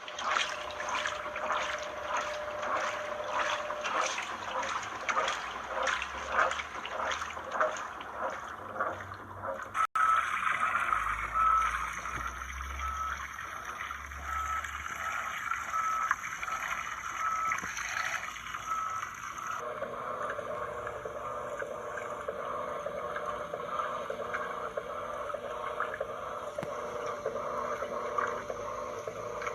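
Washing machines agitating laundry in water: rhythmic sloshing and gurgling, about two to three strokes a second in the first part. The sound changes abruptly twice, to steadier churning water with a faint whine from the machine.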